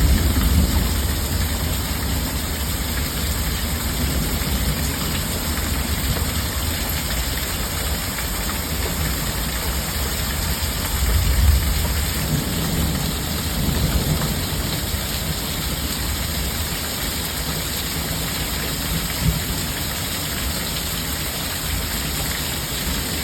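Steady heavy rain from a night thunderstorm, with a low rumble underneath and a few brief louder moments.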